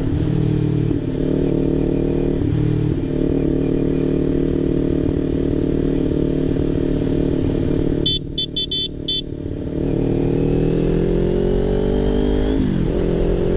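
Sport motorcycle's engine running steadily under way, its pitch slowly falling as the bike eases off, then dipping and rising again near the end at a gear change. About two-thirds in, a brief run of short high-pitched beeps sounds while the wind noise drops away.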